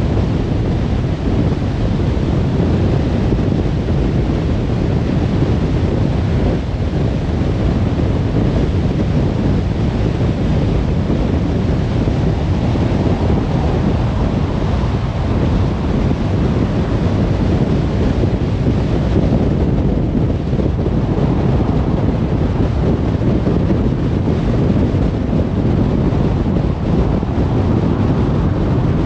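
A car driving along a road: steady low rumble of tyre and wind noise, without a break.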